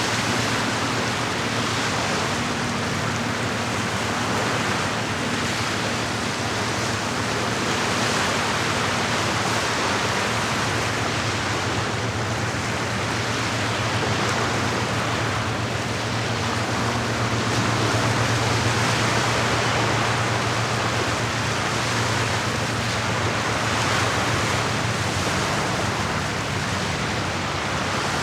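Steady rushing water with a low, steady hum beneath it.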